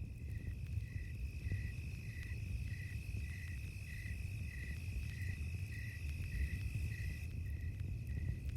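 Crickets chirping in an even rhythm, about two chirps a second, over a steady high insect trill, with the low rumble and faint crackles of a campfire underneath.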